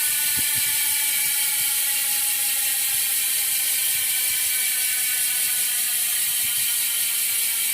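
ARC MT006 bicycle rear hub freewheeling: its ratcheting pawls blur into a steady, loud buzz, the pitch slowly falling as the spinning wheel gradually slows.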